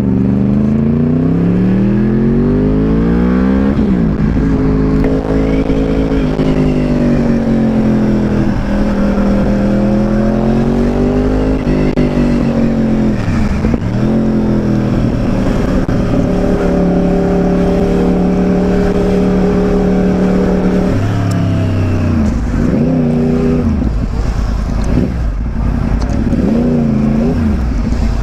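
Motorcycle engine accelerating hard through the gears, its pitch climbing and dropping back at each shift. It then holds steady at speed, with sharp dips where the throttle is chopped and snapped open again, several times in the last few seconds.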